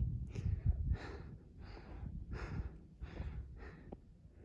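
A person breathing hard through the mouth, about six or seven quick, noisy breaths that grow fainter, over a steady low rumble.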